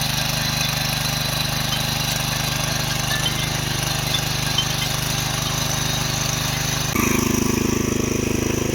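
Small petrol engine of a power weeder running steadily. About seven seconds in it grows louder and its note changes, as the throttle is raised.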